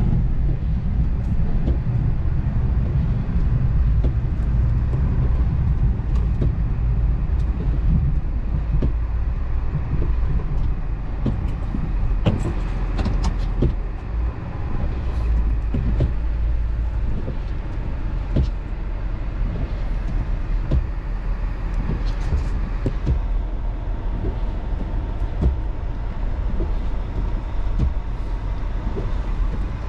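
Vehicle driving with a steady low engine and road rumble, with scattered light clicks and knocks throughout.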